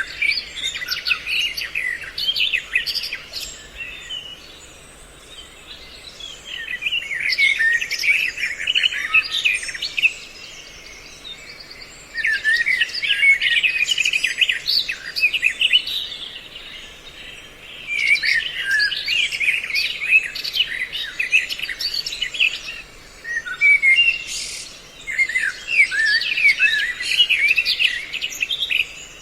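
Bird-call lure recording: a mix of songbird calls, in repeated bouts of rapid, chattering chirps a few seconds long with short pauses between, played to draw birds in for trapping.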